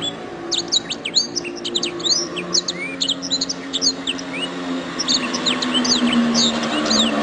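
Domestic canary singing a fast, varied song of quick chirps, sweeping whistles and short rapid trills, with brief pauses between phrases. A faint low steady drone runs underneath.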